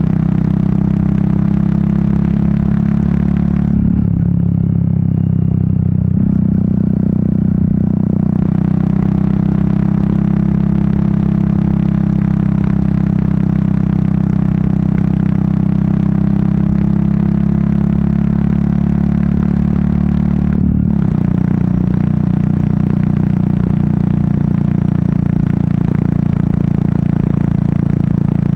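Royal Enfield Meteor 350's single-cylinder engine running steadily under way, its exhaust note mixed with wind rush. The wind rush drops away for a few seconds about four seconds in, and the engine note breaks briefly about two-thirds of the way through.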